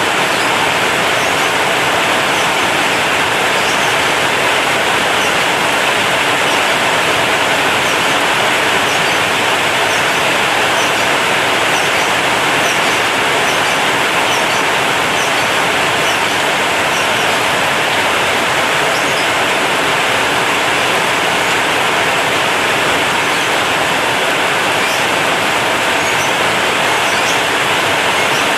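Heavy rain falling on a corrugated zinc roof, a steady dense hiss with faint scattered drop ticks on top.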